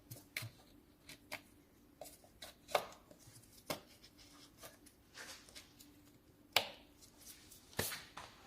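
Irregular sharp clicks and knocks of hard objects being handled, the loudest about a third of the way in and twice near the end.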